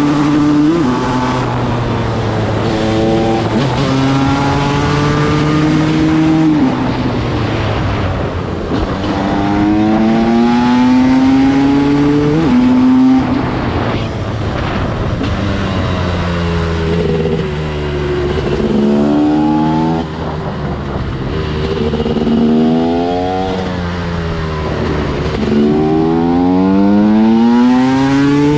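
TM SMR 300 two-stroke single-cylinder supermoto engine under hard throttle, its pitch climbing steeply again and again and falling back between the climbs as the rider shifts or backs off.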